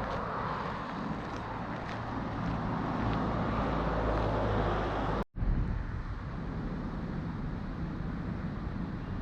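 Road traffic passing, with wind rumble on the microphone; about five seconds in it cuts off for an instant, then steadier outdoor noise follows.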